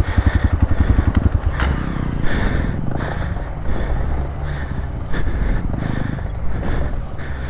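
Hero Xpulse 200 motorcycle's single-cylinder engine running, with distinct rapid firing pulses for about the first second, then running more evenly.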